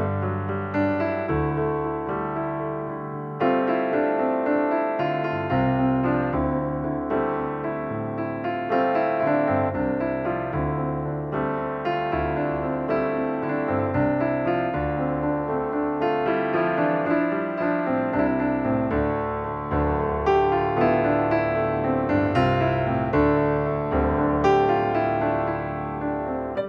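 Background music: a piano playing chords and melody with struck notes.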